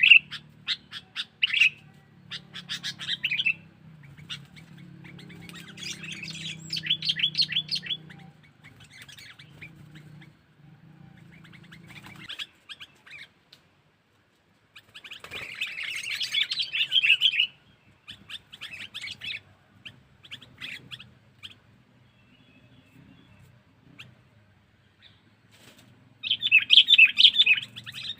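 Sooty-headed bulbul (kutilang) chattering in bursts of rapid, scratchy calls, repeated several times with pauses between. The loudest bursts come at the very start, about halfway through and near the end.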